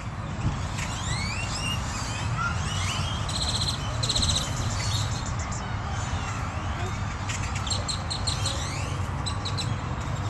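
Several birds chirping and calling, with short rising and falling notes throughout and two spells of a rapid rattling call, over a steady low hum.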